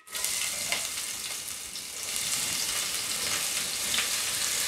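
Chopped spring onions sizzling as they go into hot olive oil and ginger-garlic paste in a frying pan: a steady hiss with scattered faint crackles.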